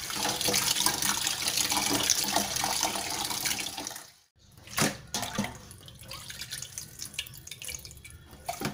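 Tap water running into a stainless steel pot while a hand swishes pork intestines in it. The rush cuts off abruptly about four seconds in. A single knock follows, then quieter sloshing and splashing.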